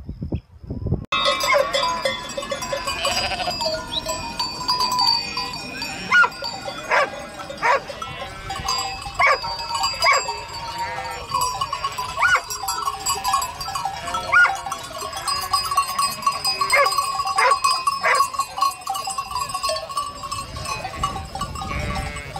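A large flock of sheep bleating, starting about a second in, with many calls overlapping and rising and falling.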